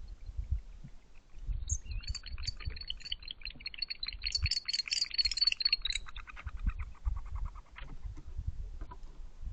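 Barn owls giving a rapid run of chittering notes, many to the second, starting about a second and a half in, loudest around the middle and trailing off near the end: agitated calls from the pair as a third owl lands on their perch.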